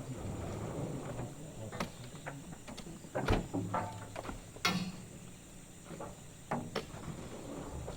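A series of irregular knocks and thuds, the two loudest about three and four and a half seconds in, over a low steady hum.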